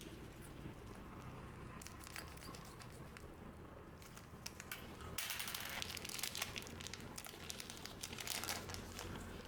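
Plastic wrapper of a trading card booster pack crinkling and tearing as it is handled and opened, the crinkling denser and louder from about five seconds in.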